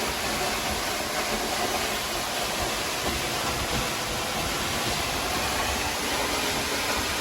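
Rushing water at Kaaterskill Falls: a steady, even rush with no rhythm or change.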